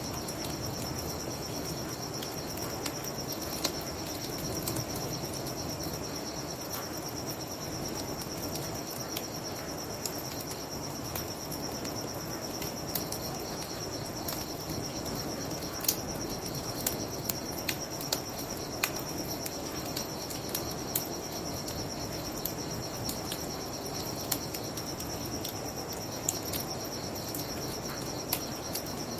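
Crickets chirping in a steady high trill, over a low even rush of a fire and flowing water, with scattered sharp crackles and pops from burning wood.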